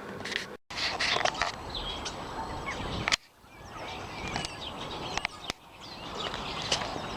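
Garden birds chirping and calling, many short high chirps over steady outdoor background noise. The sound cuts out briefly twice.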